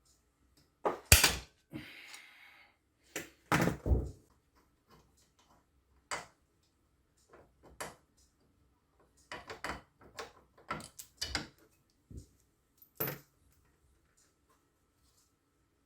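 Irregular knocks and clanks of hand tools and metal engine parts being handled, with a brief scraping rasp about two seconds in and a quick run of knocks later on.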